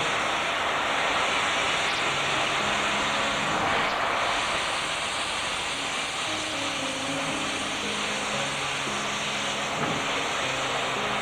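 Steam locomotive letting off steam in a steady, even hiss.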